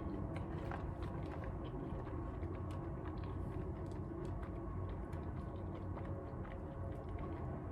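Quiet eating sounds: faint, scattered mouth clicks of chewing over a steady low room hum.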